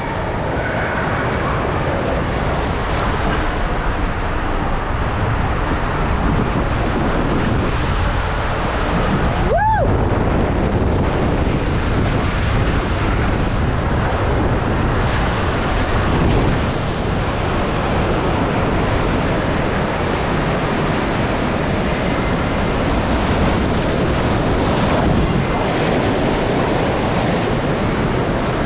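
Steady rushing and splashing water of a waterpark's pools and slides, with a short rising high-pitched squeal about ten seconds in.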